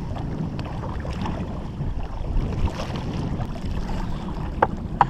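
Wind buffeting the microphone on an open kayak, a steady low rumble, with two sharp knocks near the end.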